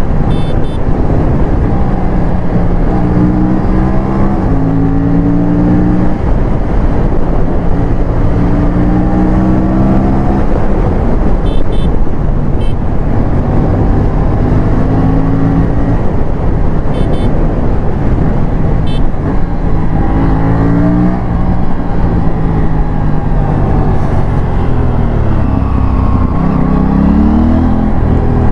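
Aprilia RS457's parallel-twin engine pulling hard, its pitch climbing in steps with a short break at each upshift, then dropping and rising again in the last few seconds.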